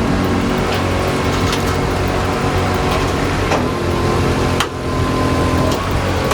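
Heavy haul truck's diesel engine running steadily under a very heavy load.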